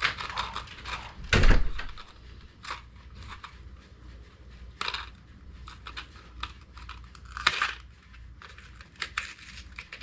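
Rustling and handling noises: scattered clicks and knocks, with one loud thump about one and a half seconds in.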